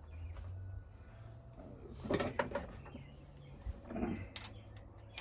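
A few light knocks and clinks of tools and small parts being handled on a workbench, in two short clusters, over a low steady hum.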